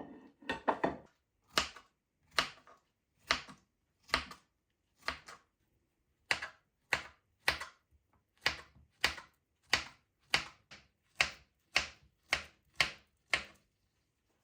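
Steady sharp knocks on a hard surface, about one a second, many followed by a softer second tap.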